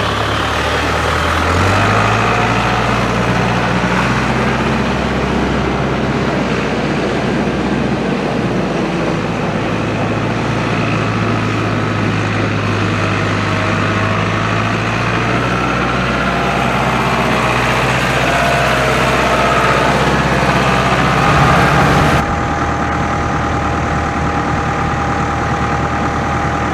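Case IH 895 tractor's four-cylinder diesel engine running steadily. Its pitch steps up about two seconds in, and near the end the sound changes suddenly.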